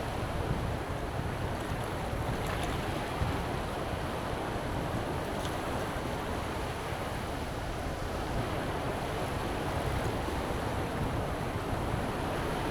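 Sea surf washing onto the beach in strong wind, with wind buffeting the microphone; a steady rush of noise with no distinct breaks.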